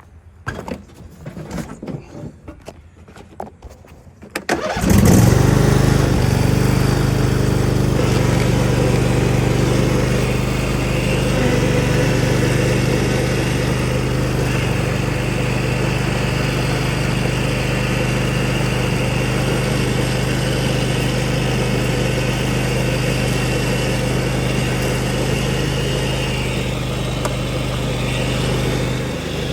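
Lawn mower engine starting about five seconds in, after a few quiet knocks, then running steadily at a constant speed, its blades freshly sharpened.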